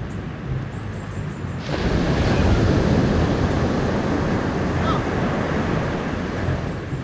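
Rushing wind and sea noise on open water, growing louder about two seconds in.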